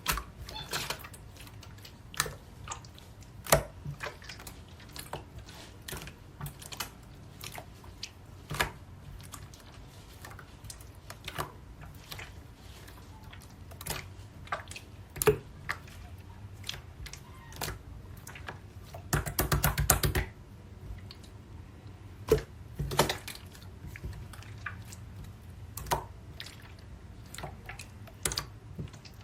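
Light pink marbled slime being pressed and poked by hand, giving irregular sharp clicky pops, with a quick run of pops about two-thirds of the way through.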